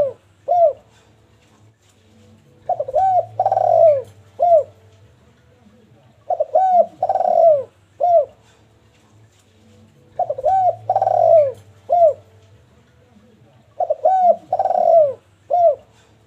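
Spotted dove (derkuku) cooing. It repeats the same phrase about every three and a half to four seconds, four times through: two short coos, a longer falling coo, then a short one.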